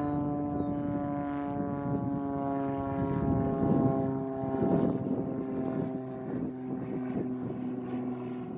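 Beechcraft Bonanza single-engine propeller plane at high power making a low flyby: a steady engine-and-propeller drone of stacked tones that swells to its loudest about four seconds in, then drops slightly in pitch and fades as the plane goes away.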